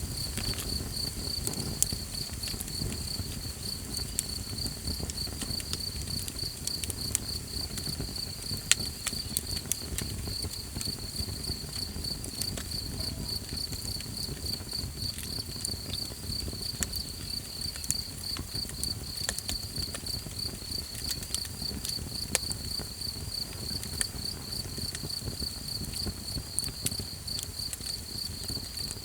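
Night insects chirping in a steady, fast-pulsing high trill over a small campfire crackling, with scattered sharp pops, two of them louder, and a low rumble of burning.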